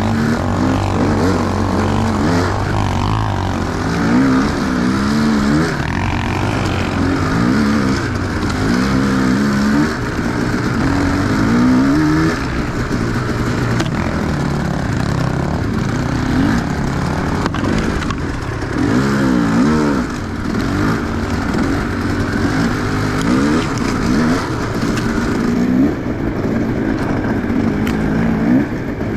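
Enduro dirt bike engine revving up and down over and over, the pitch rising and falling every second or two as the throttle is worked.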